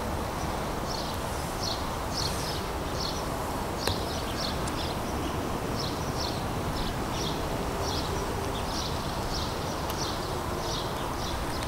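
Small birds chirping in short, high calls repeated one or two times a second, over a steady low outdoor rumble.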